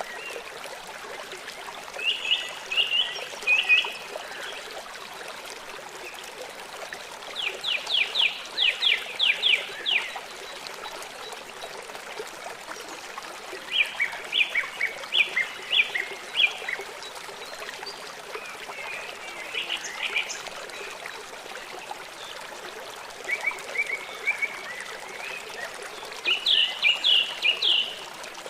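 A small songbird singing short trilled phrases of rapid repeated notes, six phrases a few seconds apart, over a steady trickle of running water.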